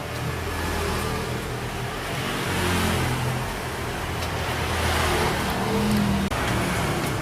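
An engine running steadily, its sound swelling louder twice, about three seconds in and again around six seconds.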